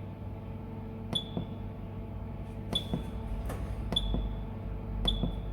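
Short electronic beeps from an air-conditioning recharge station's keypad as entries are selected, four of them a second or so apart, each a click with a brief high ping, over a steady low hum.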